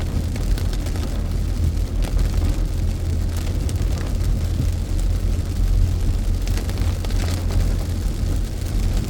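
Steady low road rumble of a car heard from inside the cabin while driving, with rain on the car and a scatter of faint ticks.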